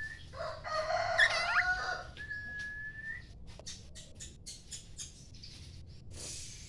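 Oriental magpie-robin singing: a long, steady whistled note, a burst of varied, quickly gliding notes, then another held whistle, followed by a run of faint clicks.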